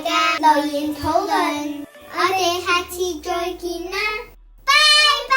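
A child singing in short phrases over music, ending on a long held note near the end.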